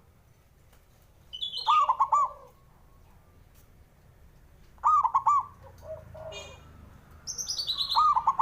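Zebra dove (perkutut) cooing: three bursts of quick, arching coos, about a second in, around five seconds and near the end. Higher, thinner notes sound over the first and last bursts.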